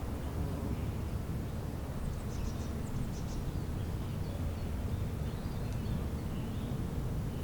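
Outdoor spring ambience: a steady low rumble with a few faint, high bird chirps, a cluster about two to three and a half seconds in and a few more around five to six seconds.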